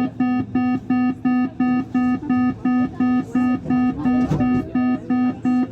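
Metro train's door-closing warning beeper sounding a rapid, steady series of mid-pitched beeps, about four a second, that stops just before the end.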